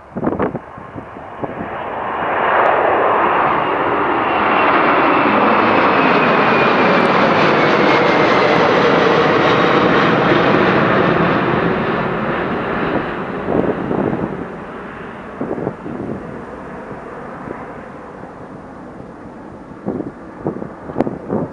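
McDonnell Douglas MD-11F freighter taking off on its three GE CF6-80C2 turbofans at full power: the jet noise builds over a couple of seconds, holds loud for about ten seconds with a whine that falls in pitch as it passes, then fades away. Wind buffets the microphone at the start and near the end.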